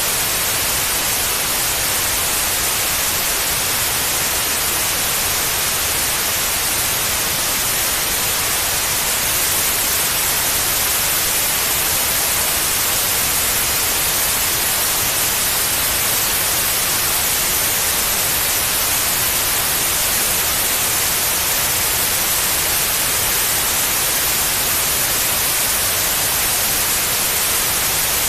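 Steady white noise: an even, unchanging hiss, strongest in the high frequencies, played as a sleep aid for babies.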